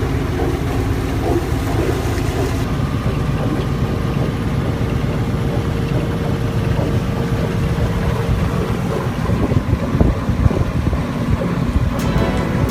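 Boat engine running steadily under way, a low rumble, with wind buffeting the microphone.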